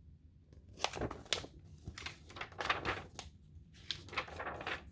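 Paper rustling and light taps from a picture book being handled as its pages are turned, a series of short soft sounds.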